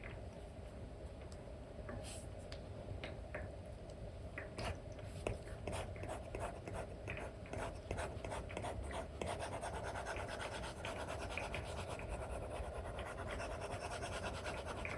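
Apple Pencil with an Elecom replacement nib tapping and scratching on a paper-like screen film over an iPad, in short strokes with frequent taps. It becomes denser and more continuous about two-thirds of the way in.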